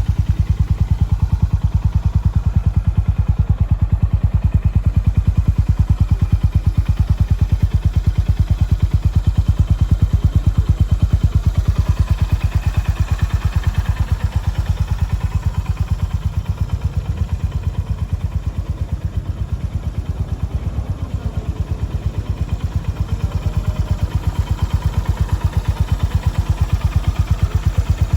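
A 2021 Honda GB350S's air-cooled single-cylinder four-stroke engine idling with an even, rapid beat through an aftermarket Wyvern slip-on muffler.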